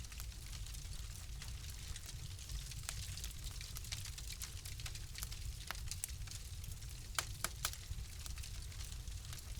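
Wood fire crackling: scattered sharp pops and snaps over a steady low rumble and soft hiss, with a few louder pops close together about seven seconds in.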